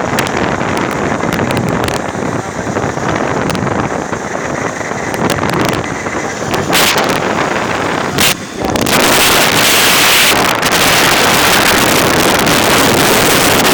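Wind rushing over the microphone of a moving vehicle, with road and engine noise beneath; the rush turns louder and harsher about nine seconds in.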